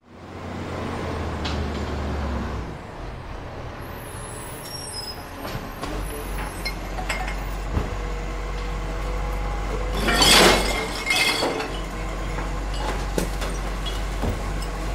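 Garbage truck running with a low engine rumble while a recycling bin is lifted and emptied: scattered clanks and clinks, then the bin's contents crash and clatter into the truck, loudest about ten seconds in, with glass clinking.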